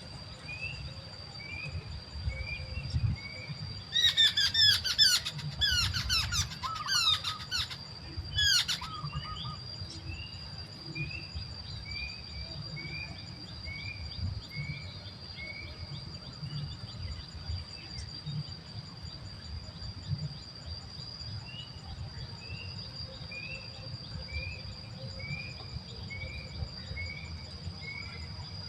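Birds calling outdoors. A steady run of short falling chirps comes at about two a second, and a few seconds in a loud burst of clear whistled notes slides downward for about five seconds. A constant high-pitched hum runs underneath.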